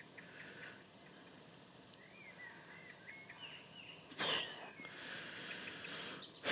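Faint birdsong: a short warbled phrase of rising and falling whistles, with a brief burst of noise about four seconds in.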